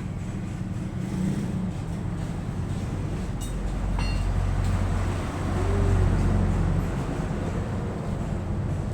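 A vehicle's low engine rumble, growing louder to a peak about six seconds in and then easing off, with one sharp click about four seconds in.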